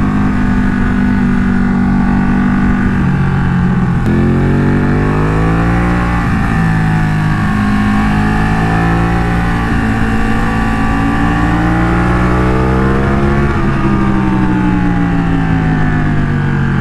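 Two-cylinder sport motorcycle engine heard from on board while riding, with wind rush on the microphone. The engine's pitch holds steady at first, then climbs and falls a few times as the throttle is rolled on and off, dropping sharply about 13 seconds in.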